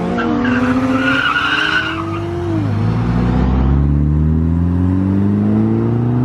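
Car engine revving hard with tyres squealing as it spins in donuts. The squeal stops about two seconds in and the revs drop, then the engine pulls up again in a long, slowly rising note.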